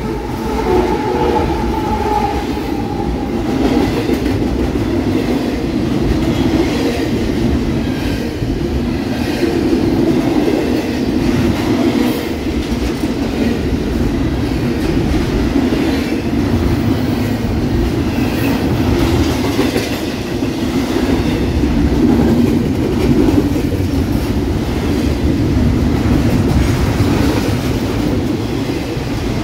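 Union Pacific freight train passing close by: its diesel locomotives go by in the first few seconds, with a steady tone that fades out about four seconds in. Then double-stack container well cars roll past with a continuous loud rolling noise of steel wheels on the rails.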